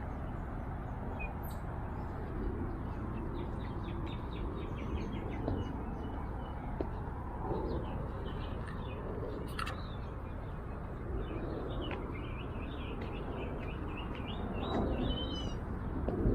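Small birds chirping and twittering in quick repeated notes, over a steady low background rumble.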